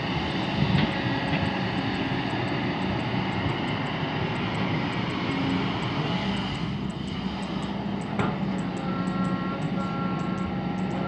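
Kobelco SK200 hydraulic excavator's diesel engine running steadily, with a couple of brief knocks and a thin high whine near the end.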